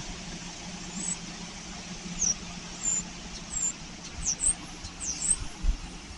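Small birds chirping: a scattering of short, very high chirps, some sliding down in pitch, over a steady low hum.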